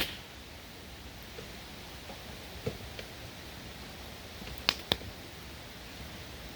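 Campfire crackling, with a few sharp pops: one at the start, a pair a bit over halfway, and the loudest pair near the end. Underneath runs the steady rushing hiss of a stream.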